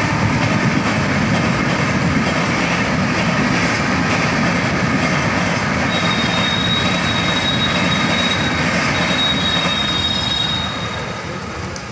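Railway train running past at speed, a loud steady rumble and clatter of wheels on track. Over the middle few seconds a thin, high wheel squeal rides on top, and the noise begins to fade near the end.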